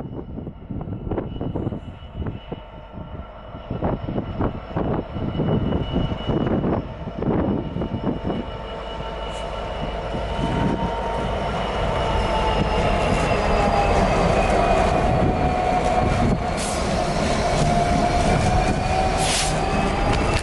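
A train running on the rails, with a series of clicks and knocks in the first several seconds. A steady high wheel squeal then sets in over a low rumble, and the sound grows louder from about eight seconds in.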